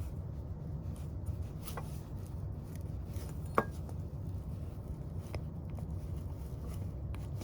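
A few faint clicks of a small rubber faucet washer and brass stem being handled as the new washer is pressed into place, the clearest about halfway through, over a steady low hum.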